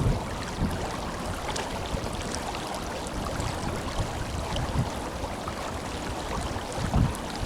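Tenryū River flowing: a steady, strong rush of moving water.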